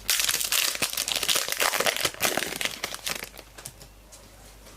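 Wrapper of a Select Footy Stars trading card pack being ripped open and crinkled in the hands: a dense crackling rustle that starts suddenly and dies away after about three seconds.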